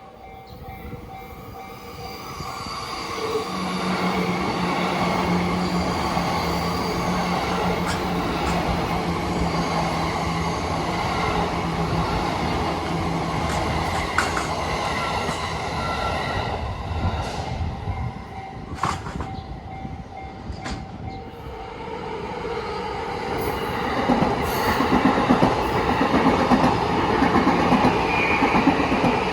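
JR East E235-series Yamanote Line electric train running past, with a steady motor hum over the rumble of wheels on rails. The sound eases off midway, then a louder wheel rattle builds again near the end.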